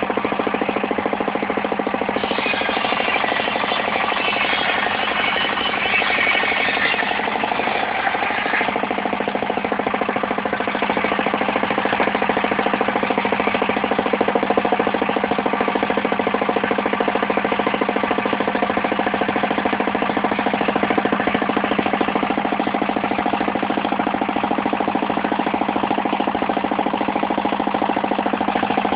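Portable circular sawmill running steadily, its engine holding one even speed with a hard, rattling note. From about two seconds in to about eight seconds in a brighter, harsher sound rides on top of it, then falls away.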